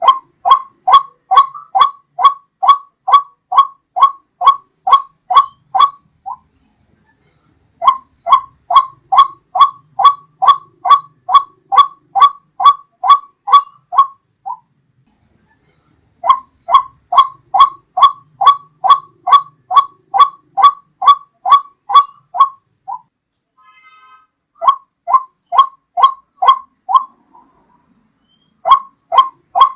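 White-breasted waterhen (ruak-ruak) calling, as a recorded lure call: a loud, fast series of repeated notes, about two a second, in bouts of roughly six seconds with short pauses between them.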